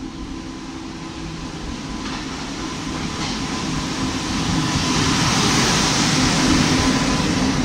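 Electric locomotive and passenger coaches of an Indian Railways express rolling past along a station platform. The rumble of wheels on rail and a steady low hum grow louder as the train approaches, loudest about five to seven seconds in.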